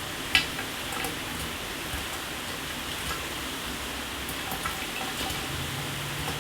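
Shower water spraying steadily, with scattered individual drops striking, one sharp one about half a second in. A low hum comes in near the end.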